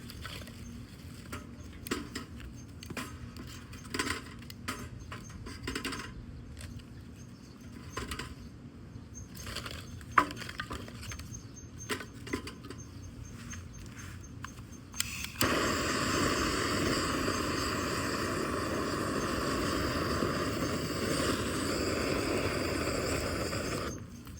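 Wood fire in a fire pit crackling with sporadic sharp snaps. About fifteen seconds in, a loud steady rushing hiss starts suddenly and runs for about nine seconds, cutting off suddenly near the end.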